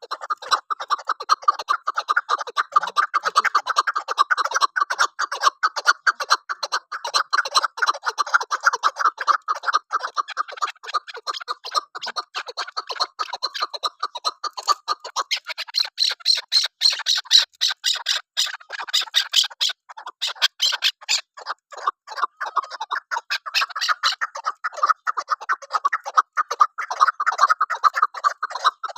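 Chukar partridge (keklik) calling: a long run of rapid, repeated short calls, several a second, shifting higher in pitch for a stretch in the middle.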